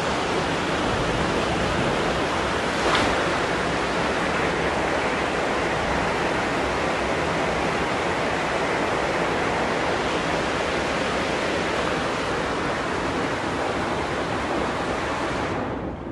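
Steady rush of flowing river water, an even hiss with a brief louder burst about three seconds in; the higher part of the hiss drops away just before the end.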